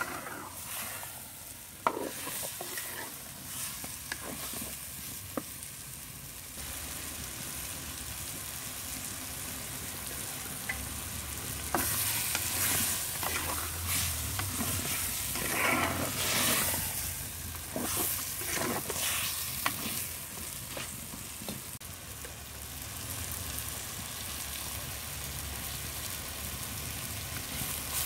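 Chicken pieces sizzling as they fry in a black pot, stirred with a metal spoon that scrapes and clicks against the pot. The stirring gets louder for several seconds midway.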